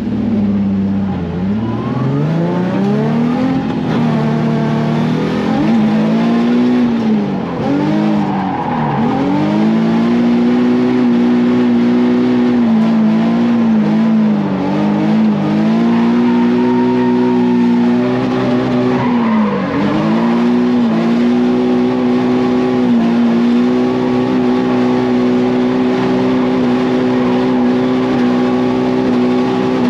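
Nissan 350Z drift car's V6 engine at high revs on a drift run: the revs climb and drop several times in the first twenty seconds, then hold high and steady with brief dips, falling away near the end.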